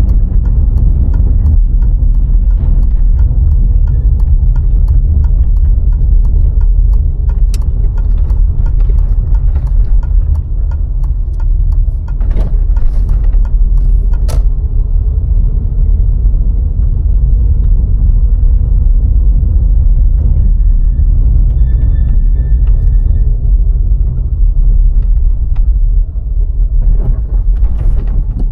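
VW Golf IV 1.6 driving on the road: a steady low rumble of tyres and engine, with small knocks and rattles scattered through. A short high beep sounds twice about three-quarters of the way through.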